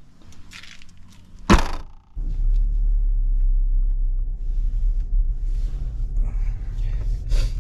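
Volkswagen car engine starting with a sharp knock about a second and a half in, then settling into a steady, low idle. There is a short click near the end.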